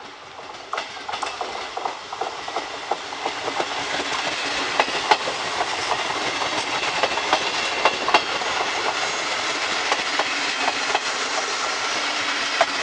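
Electric regional passenger train passing close by, its wheels clicking over rail joints. It grows louder over the first few seconds as it draws near, then runs steadily with a scatter of sharp clicks as the carriages go past.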